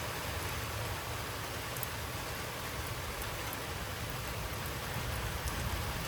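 Heavy thunderstorm rain pouring steadily, with a steady low rumble underneath and a few faint high ticks of drops.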